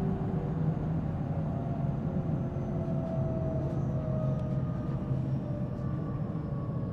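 Inside a JR Central 313 series 0-subseries electric motor car: traction motor and inverter whines falling slowly in pitch as the train slows, over a steady rumble of wheels on rail.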